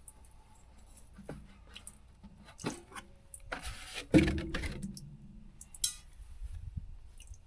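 Scattered clicks and knocks of metal tools and parts being handled, with a scrape and then one loud clank that rings briefly about four seconds in, and a sharp click a little later.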